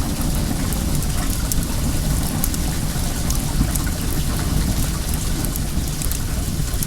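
Steady rush of flowing well water, heavy in the low end, with sharp crackles and pops from a wood bonfire scattered through it.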